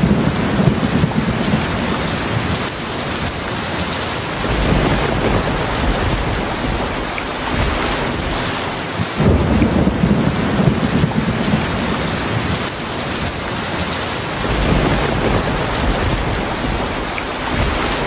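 Heavy rain falling steadily, with low rolling thunder rumbling several times, swelling and fading every few seconds.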